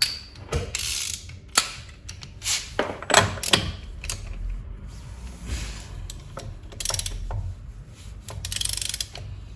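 Irregular clicks, clinks and scrapes of metal hand tools: a long 36 mm socket wrench being handled and fitted onto a car's front drive shaft hub nut.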